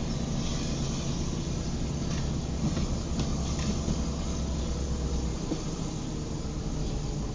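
Car driving in the rain, heard from inside the cabin: a steady low engine drone under an even hiss of tyres and rain on a wet road, with a few faint clicks in the middle. The deepest part of the drone drops away about five seconds in.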